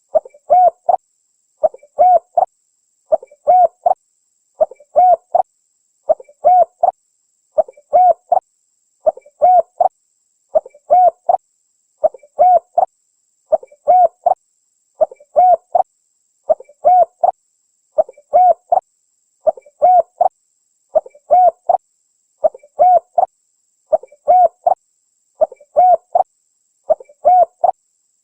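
Spotted dove (tekukur) cooing call: a short phrase of a few coos, repeated at very even intervals about every one and a half seconds.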